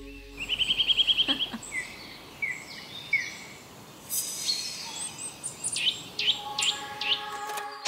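Birds singing: a fast trill of about ten notes a second, then short falling notes and varied higher calls, over a faint background hiss. Steady held tones come in near the end.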